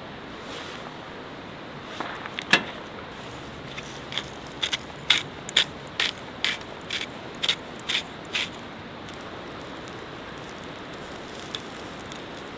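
Scissors snipping open plastic food packaging: one sharp snip, then a run of about ten crisp snips, roughly two a second, that stops after a few seconds. A steady rush of stream water runs underneath.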